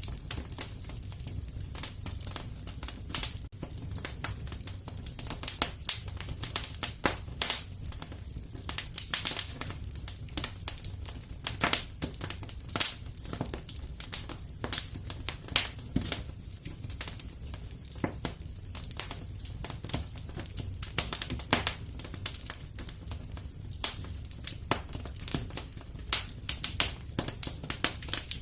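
Wood fire crackling steadily in a fireplace: irregular sharp pops and snaps, several a second, over a soft low rumble of burning.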